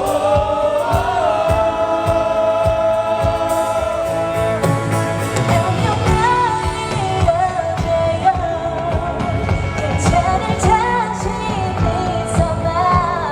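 Female pop vocalist singing live over a full band with drums, holding long notes. The sound comes through an amateur camera recording at concert volume that breaks up at the loudest moments.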